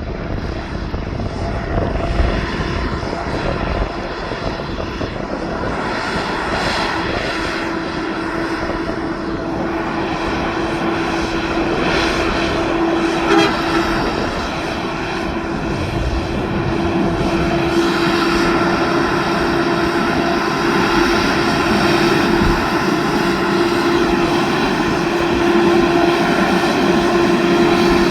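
Heavy truck's diesel engine running with a steady drone, growing gradually louder.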